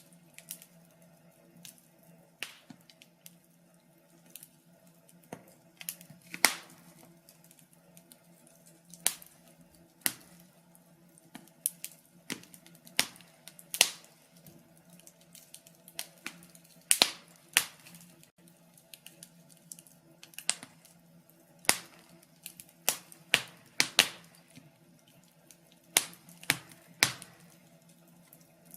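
Wood fire in a fireplace crackling: sharp pops and snaps at irregular intervals over a faint steady hum.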